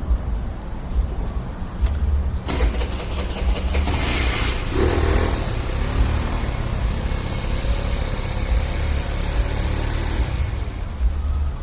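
Four-stroke carbureted scooter engine being started, with a louder, fuller engine noise setting in about two and a half seconds in. The scooter is hard to start every time.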